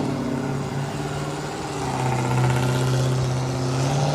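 Car engine running steadily while driving, with a steady hum that grows a little louder about two seconds in.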